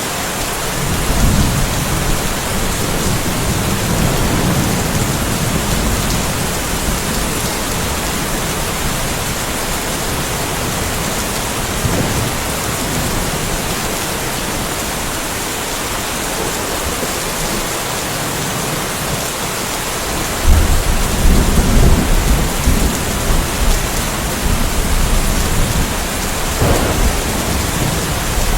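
Steady rain falling in a light thunderstorm, with rolling thunder rumbling low a few seconds in and again, louder and longer, about two-thirds of the way through.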